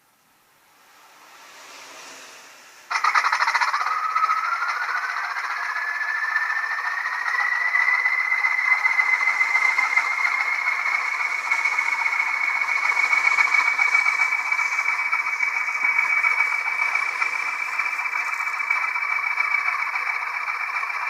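Sound decoder in a Bachmann Class 20 model locomotive playing the diesel engine through its small speaker, thin with no deep bass. It cuts in suddenly about three seconds in, and the engine's turbocharger whistle rises over several seconds as it powers up, then holds steady over a rattling engine note.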